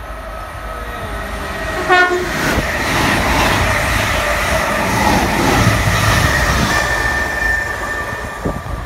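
Greater Anglia electric multiple unit giving a short horn blast about two seconds in, then running past close by with a loud rush of wheel and traction noise that fades near the end.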